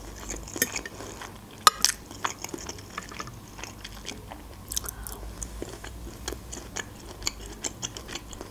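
A person chewing a mouthful of creamy shrimp pasta close to the microphone: scattered small wet clicks and smacks of the mouth, with a sharper click about two seconds in.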